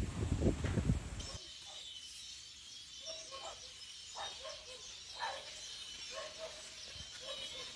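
Outdoor ambience: scattered short bird chirps over a steady high hiss. It opens with a second or so of loud, rough, low rumbling noise that cuts off abruptly.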